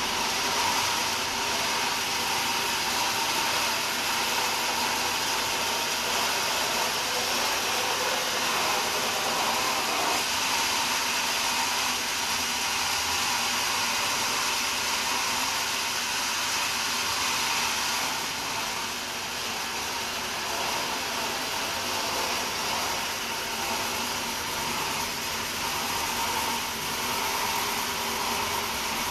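Sawmill saw running steadily: a constant hiss with a faint whine through it.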